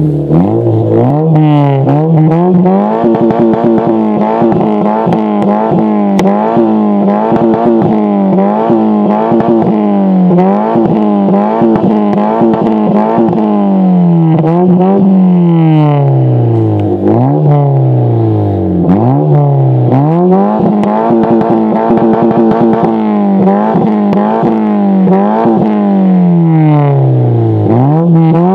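Honda Civic 1.5 VTEC four-cylinder engine revved again and again through a WM sport aftermarket exhaust, the revs climbing and dropping every second or two.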